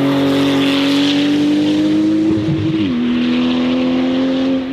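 Porsche 911 GT2 RS Clubsport 25's 3.8-litre twin-turbo flat-six pulling hard, its pitch climbing slowly and then dropping with an upshift about three seconds in.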